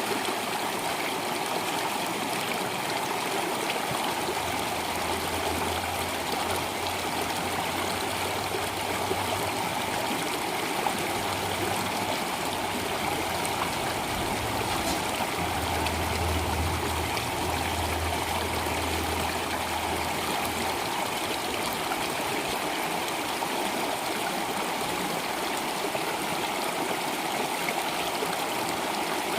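Water flowing steadily in a stream, an even rushing and trickling without a break. A low steady hum rises under it twice, for several seconds each time.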